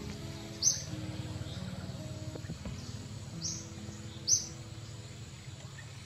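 A bird's short, sharp high chirp, three times: about a second in, then twice near the middle. Under it are soft background music of sustained low notes and a steady hiss.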